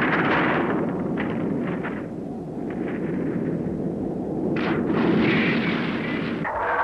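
Explosion sound effects over a continuous heavy rumble, swelling again about two-thirds of the way through.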